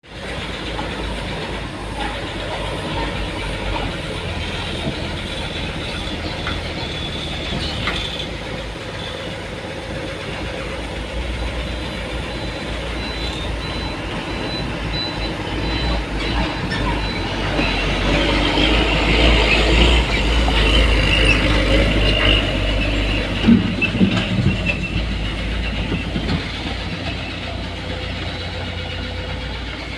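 Heavy diesel machinery working: a steady low engine rumble with metallic clatter. It swells louder about halfway through, when a high squeal and a few sharp knocks come in.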